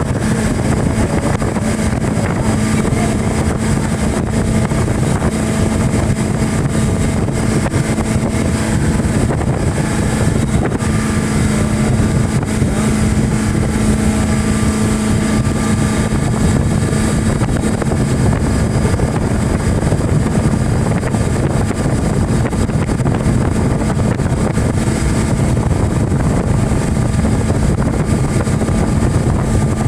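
Speedboat engine running steadily under way, a constant hum with no change in pitch or level.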